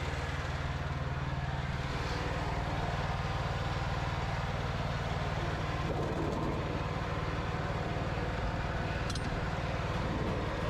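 Dzik 2 mini tractor's engine running steadily, its note shifting slightly about two seconds in.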